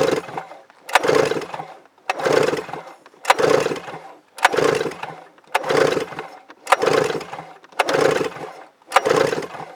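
1997 Yamaha Vmax SX 700 three-cylinder two-stroke snowmobile engine being cranked over for a compression test on the mag-side cylinder. It turns over in nine short bursts about a second apart, each opening with a sharp click. The cylinder is building to a gauge reading of 125 psi.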